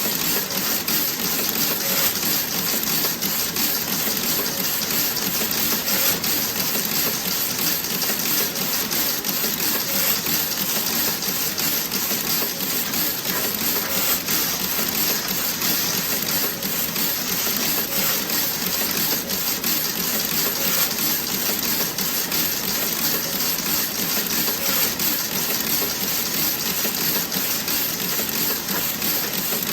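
Toe-sock knitting machine running: a steady, dense mechanical clatter of rapid fine ticks over a hiss.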